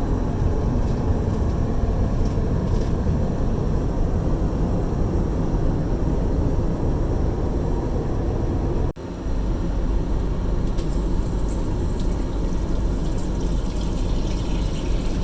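Steady rumble and rushing noise inside the cabin of an Airbus A330-300 airliner. About nine seconds in the sound drops out for an instant and resumes, with a brighter hiss joining a moment later.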